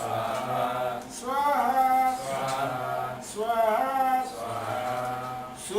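Sanskrit mantra chanted in a sung melody, in short rising-and-falling phrases that begin again about every two seconds.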